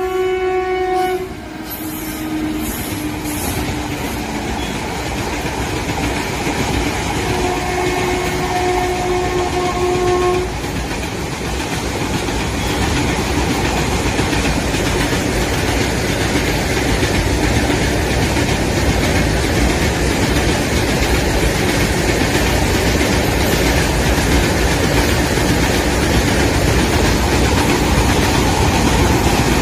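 Diesel locomotive approaching: its horn ends about a second in and blows again for about three seconds later on, over a rumble of engine and wheels on the rails that grows steadily louder.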